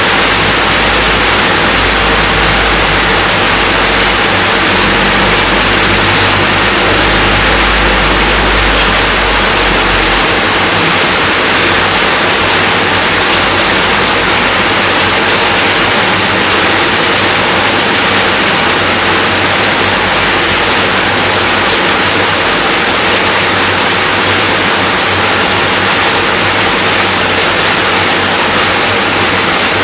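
Rain falling steadily, a dense even hiss with no change, with a low rumble underneath that stops about ten seconds in.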